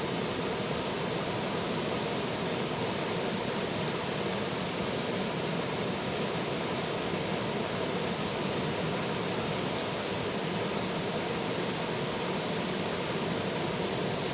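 River water flowing steadily, a continuous even rush with no changes.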